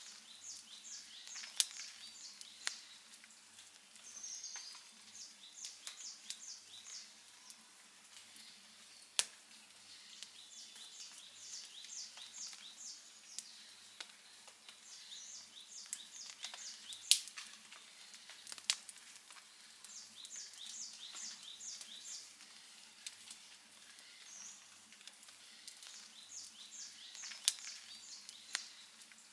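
Wood campfire crackling steadily, with several sharp pops, the loudest about two-thirds of the way in. Behind it, a high chirping call repeats in short rapid runs every few seconds.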